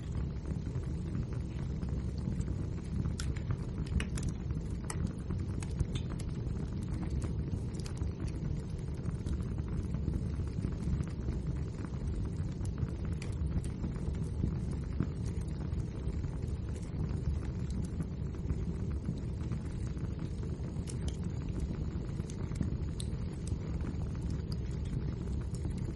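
Wood fire burning in a fireplace: a steady low rumble of the flames with scattered small crackles and pops from the burning logs.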